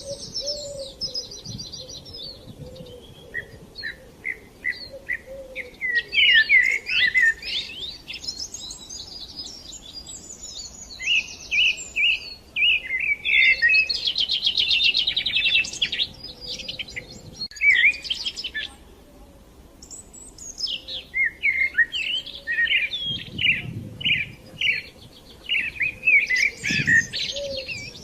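Songbirds chirping and singing in bouts of quick chirps and fast trills, with short lulls between.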